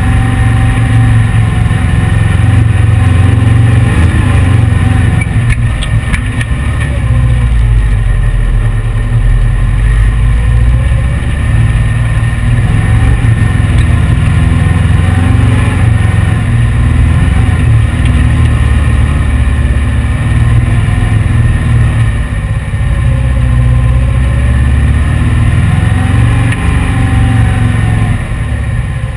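1835cc Volkswagen air-cooled flat-four engine of a heavy dune buggy running loud under load, its revs rising and falling again and again. The owner finds the car too heavy for this engine.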